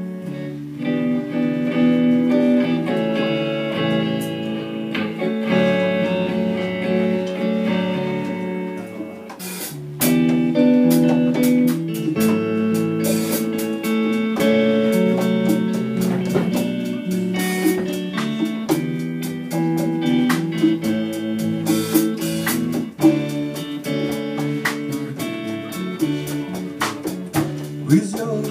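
A guitar-led band playing an instrumental passage of sustained chords. About ten seconds in it gets louder and fuller, with frequent sharp percussive hits from then on.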